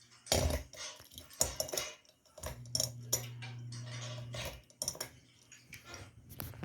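A run of light metallic clicks and clinks, like small metal tapping against glass, with a steady low hum for about two seconds in the middle.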